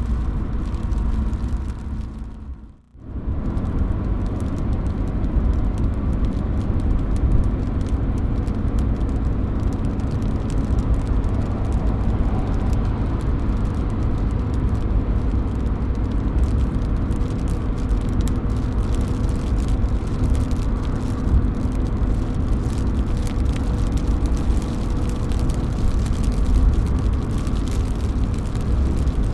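Steady rain, with drops falling from a roof: an even rushing hiss over a heavy low rumble, with fine ticks of drops on top. It dips almost to nothing for a moment about three seconds in, then comes straight back.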